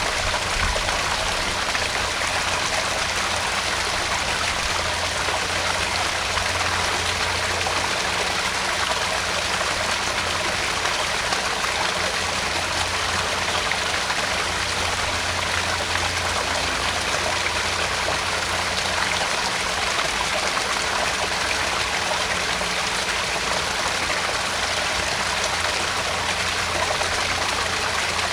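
Small garden pond waterfall splashing and trickling, a steady, unbroken rush of falling water.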